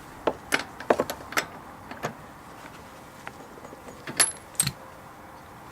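A scatter of light, sharp clicks and clacks from small hard parts or tools being handled, with a quick cluster in the first two seconds and two more about four seconds in.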